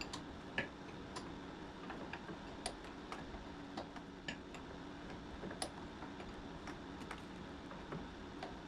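Scattered light metallic clicks and taps of hand tools working on power steering pump lines, coming at irregular intervals over a steady low hum.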